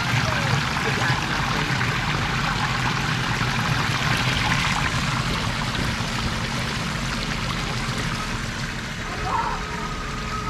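Steady rushing of running water, with a thin high tone starting near the end.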